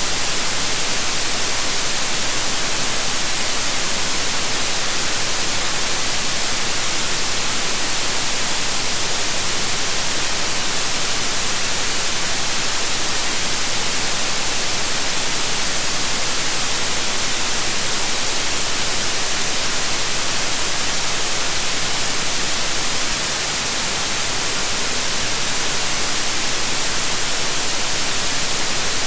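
Steady white noise: an even, unbroken hiss spread across all pitches, strongest in the treble. It dips slightly in level for a moment about three-quarters of the way through.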